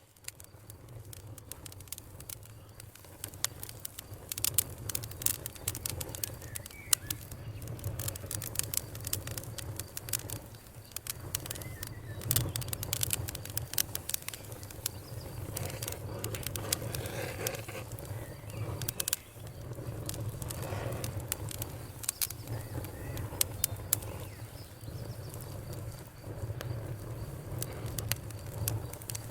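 Wood fire crackling outdoors, with frequent irregular sharp pops over a low steady rumble of the flames. It fades in over the first few seconds. Faint bird chirps come through now and then over a thin steady trill of crickets.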